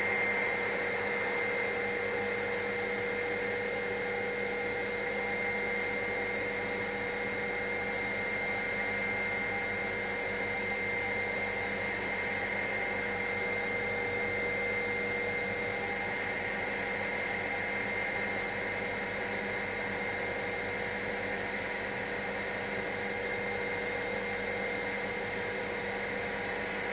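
Helicopter engine and rotor noise inside the cabin, a steady whine with several fixed tones that holds level without change.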